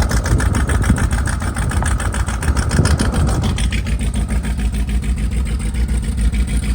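Twin-turbo LS V8 engine of a limo running at low speed, a steady low rumble with rapid even exhaust pulses; a higher-pitched layer of sound fades out about three and a half seconds in.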